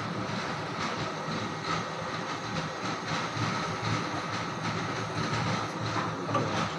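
A machine running steadily: a continuous mechanical rumble with light rattling clatter.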